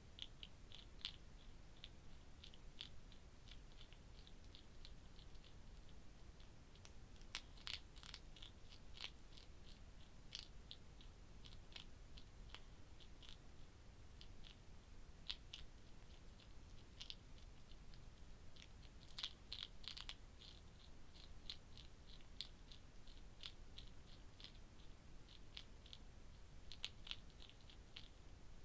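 Hedgehog chewing cat food: a steady run of small, crisp clicks, a few a second, with louder spells of quicker clicking about a quarter and two-thirds of the way through.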